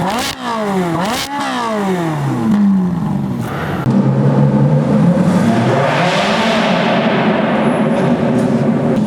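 A supercar engine revved in two quick blips, its pitch shooting up and falling back each time, then accelerating, louder from about four seconds in with the pitch climbing again.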